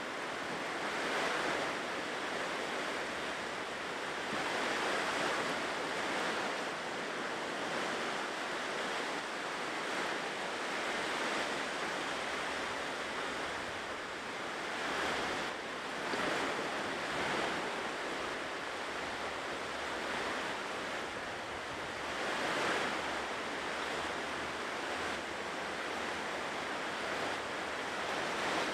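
Ocean waves breaking and washing on a shore, a continuous surf noise that swells gently every few seconds as each wave comes in.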